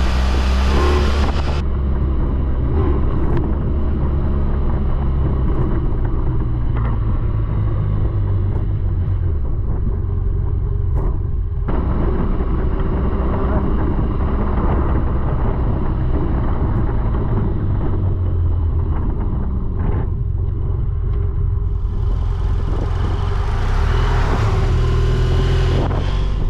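BMW F800GS parallel-twin engine running steadily under way, a low drone, with wind rushing over the microphone. The wind noise grows louder near the end.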